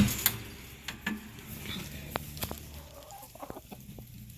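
Chickens clucking in a coop, with a sharp knock right at the start and a few lighter clicks after it.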